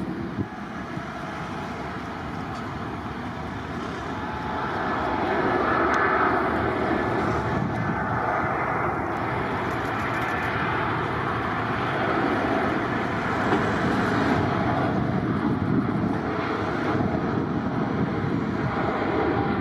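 Airliner's engines running as the aircraft passes: a steady noise that grows louder about four to six seconds in and then holds.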